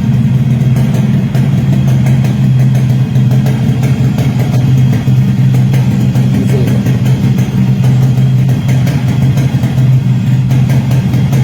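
Yamaha RXS 115's single-cylinder two-stroke engine idling steadily.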